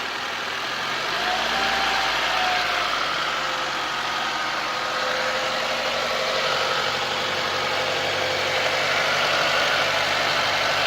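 2013 Nissan Altima coupe engine running with a whining noise, a thin tone that glides up and down with engine speed as the revs are raised slowly. The engine gets louder about a second in, then keeps climbing gradually.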